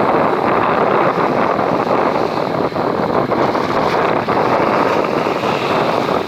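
Steady wind noise on the microphone aboard a fishing boat at sea, with the rush of the sea mixed in.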